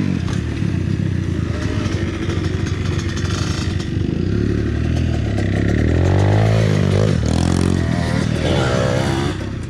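Dirt bike engine running, its pitch rising and falling several times in the second half as the throttle is worked.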